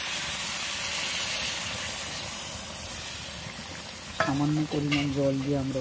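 Chicken and potato curry sizzling in a karahi with a little water just added, a metal spatula stirring and scraping through it in a steady hiss.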